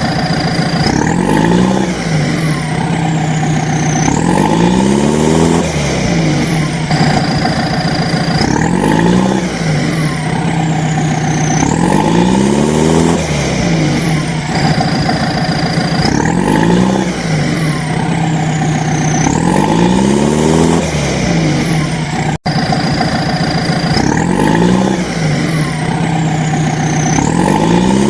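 Looped electronic engine-like sound effect of the kind a battery-powered toy vehicle plays. It repeats about every four seconds, with a steady hum under rising and falling pitch glides.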